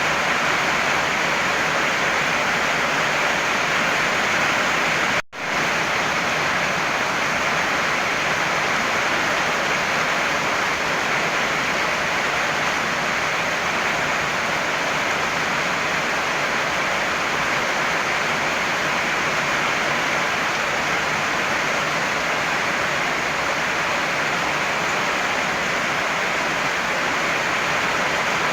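Heavy rain falling as a steady, dense hiss. About five seconds in it cuts out for an instant and quickly fades back in, like a splice in a looped recording.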